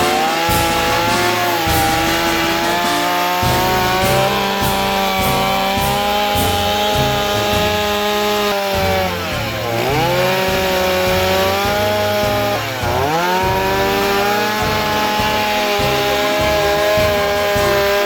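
Chainsaw running at high revs while cutting wood. Its pitch sags sharply twice, about ten and thirteen seconds in, then climbs back.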